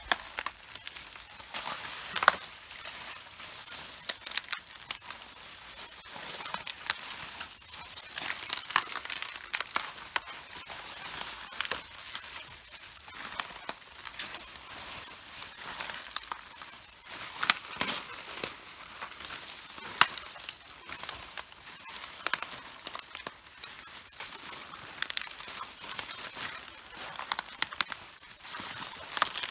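Red cabbage leaves crunching, cracking and snapping underfoot as they are walked on and crushed, with a dense run of sharp crackles throughout.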